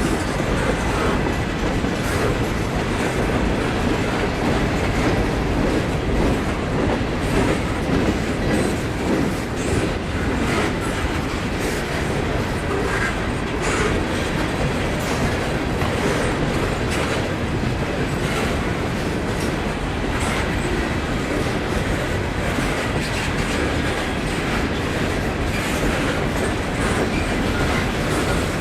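Railroad cars rolling steadily along the track, steel wheels clicking over the rail joints.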